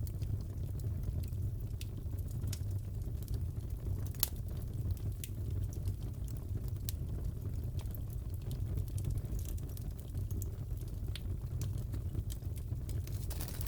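Fireplace crackling: a steady low rumble with irregular sharp pops and crackles scattered throughout.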